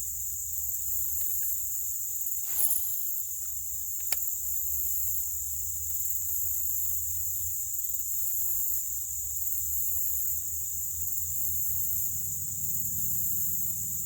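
Steady high-pitched chorus of insects over a low rumble. A brief whoosh about two and a half seconds in and a sharp click a couple of seconds later.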